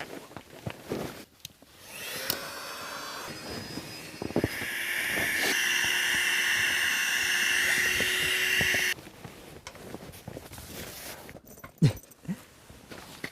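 A small motor or blower whirring steadily for several seconds, then cutting off suddenly, followed by a couple of sharp knocks.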